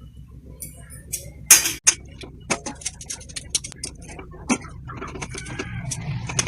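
Metal utensil clicking and clinking against a steamer pot as steamed chicken pieces are lifted out: a loud clink about one and a half seconds in, then irregular quick ticks that come more often after about two seconds.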